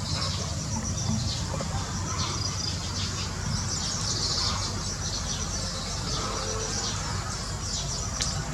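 A steady, high insect trill with birds chirping over it in short, falling notes, and a low steady rumble underneath.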